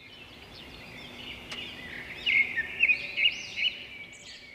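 Birds chirping and calling over a steady high-pitched background, with a quick run of loud short chirps in the middle.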